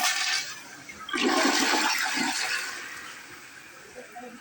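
Toilet flushing with force, a rush of water starting about a second in and tapering off toward the end. It flushes properly because the drain vent pipe is left open, without the valve gizmo that had been sealing it shut during flushes.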